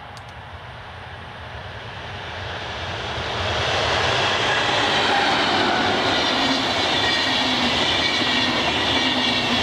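DB class 218 diesel locomotive approaching and passing with a train of passenger coaches. The sound grows over the first few seconds as the locomotive comes close and goes by, then settles into the steady rumble of the coaches' wheels rolling along the rails.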